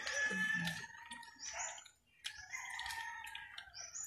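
Birds chirping: short, high chirps that rise in pitch at the end, repeated several times over a thin, steady high tone. The sound cuts out briefly about halfway through.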